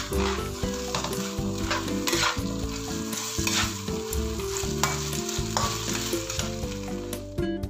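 Chicken sizzling in a hot frying pan while it is stirred, with repeated clicks and scrapes of the utensil against the pan.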